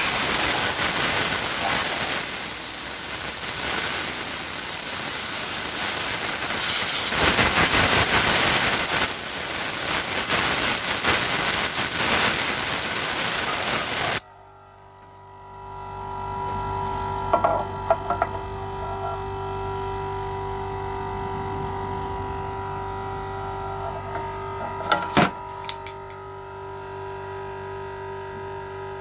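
Compressed air hissing loudly for about fourteen seconds, then cutting off suddenly. After it, a homemade low-noise air compressor runs with a quiet steady hum, with a few short clicks.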